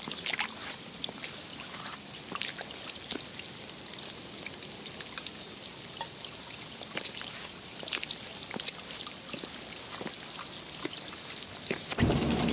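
Steady rain falling, with many scattered drops ticking as they land and water trickling. Near the end the sound cuts to a louder, lower steady noise.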